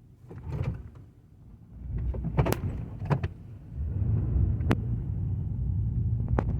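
A car straining to move in deep snow: a few sharp knocks, then a steady low rumble of engine and tyres from about four seconds in.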